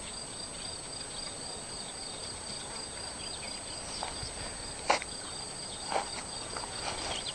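Insects chirring steadily: a fast, even, high pulsing trill with a thinner continuous high whine above it, over a faint even hiss. A sharp click about five seconds in and another about six seconds in.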